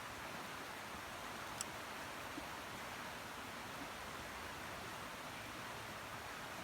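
Steady hiss of rain falling, with one sharp tick about a second and a half in.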